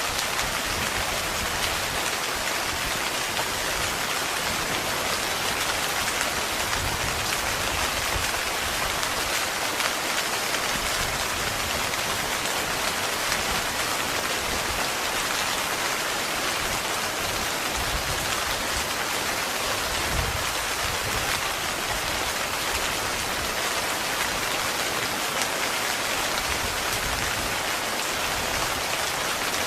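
Heavy rain falling steadily on a tent, a dense even patter with no let-up.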